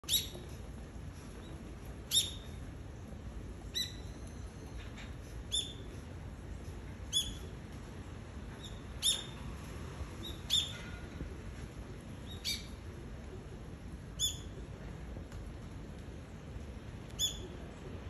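A wild bird calling from a tree: about ten short, sharp, high calls, one every one and a half to two seconds.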